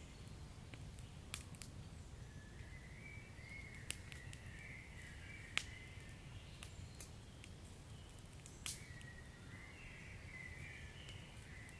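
Wood fire in a fireplace crackling faintly, with sharp pops every second or two over a low steady rumble; the loudest pop comes about halfway through. A wavering high whistling hiss comes and goes.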